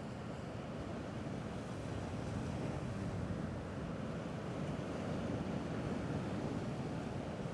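Small sea waves washing steadily, a low even rush without any single splash or plop.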